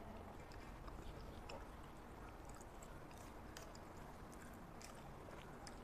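Faint chewing of a mouthful of spaghetti: scattered small mouth clicks over a steady low hiss.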